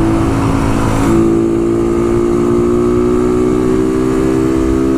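Bajaj motorcycle engine running under way, its pitch stepping up about a second in and then climbing steadily as the bike accelerates.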